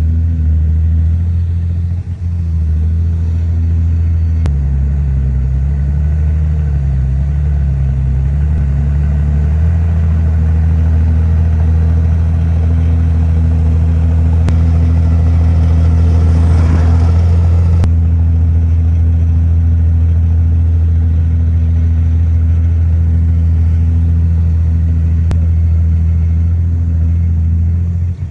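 Komatsu bulldozer's diesel engine running steadily under load, its pitch wavering between about five and ten seconds in. A short rushing swell rises and fades about sixteen seconds in.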